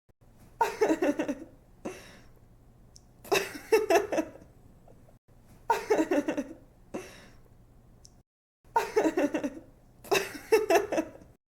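A young woman laughing in about five short bursts of quick, pulsing giggles, a second or two apart, with soft breathy tails between them.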